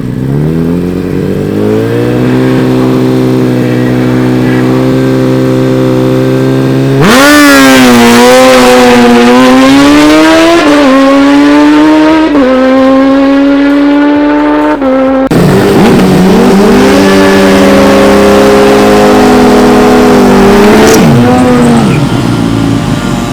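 Drag-racing engines at high revs. An engine is held at a steady high rev, then a much louder run begins suddenly, its pitch rising and stepping down at gear changes. After that, engine notes rise and fall again and drop away near the end.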